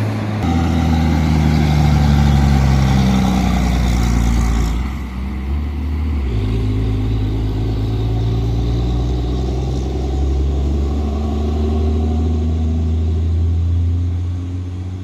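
Heavy diesel engine of a loaded dump truck running close by, its note sliding down over the first few seconds, briefly dropping away about five seconds in, then picking up again and running steadily.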